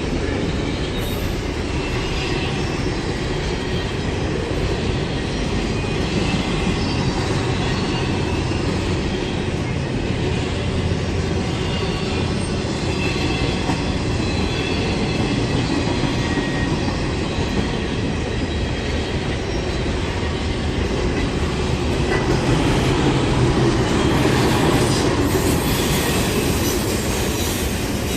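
Train rolling past on the rails: a steady rumble of wheels with faint, high wheel squeals now and then, growing a little louder near the end.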